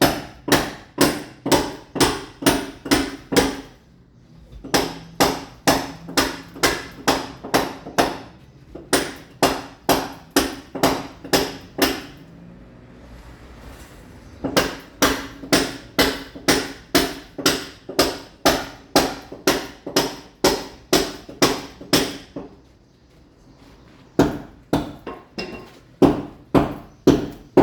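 Mason's hammer striking a wall over and over, chipping the surface to roughen it so ceramic tile will bond. The blows come in steady runs of about three a second, with a few short pauses between runs.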